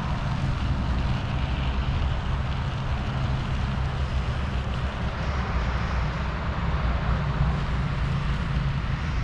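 Steady rumbling noise of a bicycle being ridden: wind buffeting the action camera's microphone over tyres rolling on the road.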